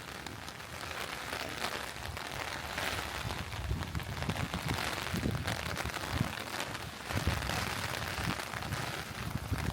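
Steady rain falling, an even hiss, with irregular low thuds and rumbles from about three and a half seconds in.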